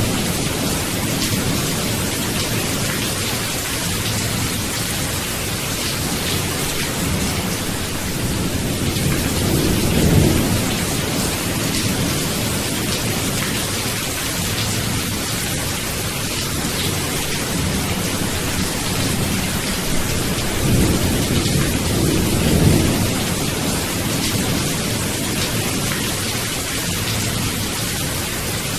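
Steady rain with rolling thunder, the rumble swelling about a third of the way in and again past two-thirds of the way through.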